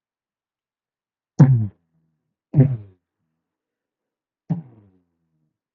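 A man's voice making three short, deep mouthed 'boom' explosion noises, each about a second or two apart, imitating blasts going off one after another.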